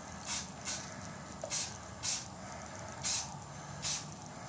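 Aerosol spray paint can hissing in six short spurts, the nozzle only tapped each time rather than held down, laying on light mist coats.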